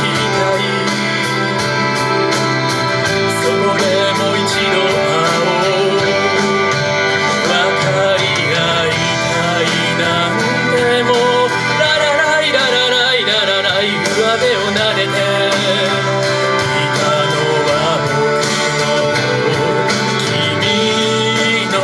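A song sung over instrumental backing, with the voice and accompaniment continuing steadily throughout.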